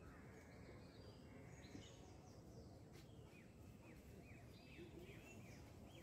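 Faint birdsong over quiet outdoor background noise, with a quick run of short falling chirps about halfway through.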